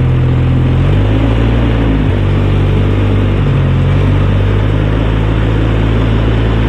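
Four-wheeler (ATV) engine running steadily under way, its pitch shifting slightly a few times with the throttle.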